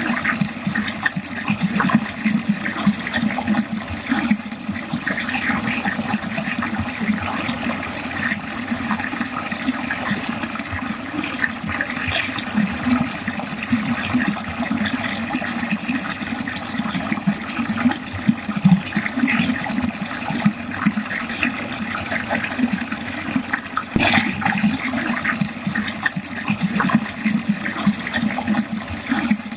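Water pouring steadily into a drain, a continuous gurgling, splashing flow with one sharper splash about 24 seconds in.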